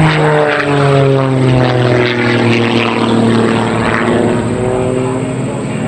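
Propeller-driven aerobatic biplane, a Christen Eagle with an engine modified well above 300 horsepower, running at high power as it passes by. Its pitch drops sharply right at the start and then keeps sliding lower as it moves away.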